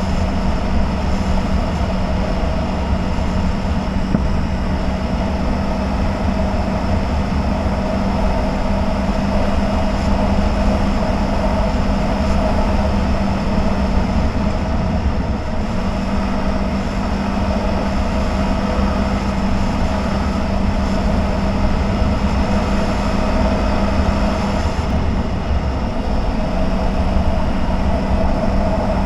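CFMOTO 1000 off-road vehicle's V-twin engine running steadily under way, with a rumble and hiss of ride noise. The steady engine hum drops out briefly twice, about halfway through and again a few seconds before the end.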